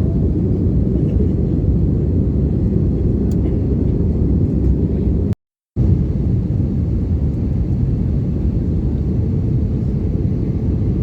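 Airbus A320 cabin noise: a steady low rumble of the engines and airflow. It breaks off for a moment about five and a half seconds in.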